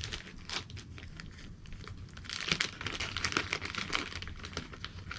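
Crinkling and rustling of a crinkly material being handled close by: light and scattered at first, then a dense run of small crackles from about two seconds in.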